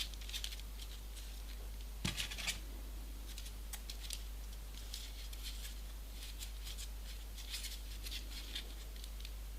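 Faint, scattered crackles and rustles of a folded paper origami model being handled, with a single knock about two seconds in, over a steady low hum.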